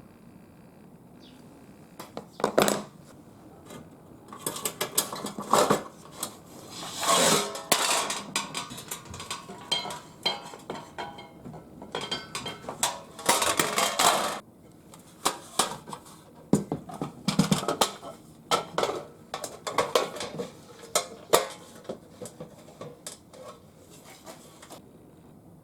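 Thin metal parts of a homemade folding fire stand clinking and clattering as they are handled, in irregular knocks with two denser runs of rattling.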